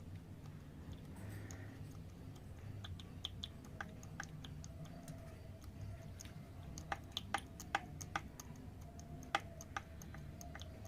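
Engine running with a low steady hum and a scatter of sharp, irregular ticks and knocks from the top end, thickest in the second half. It is the rod-knock-like noise that persists after the valve lash was adjusted, which the mechanic says could come from a camshaft problem.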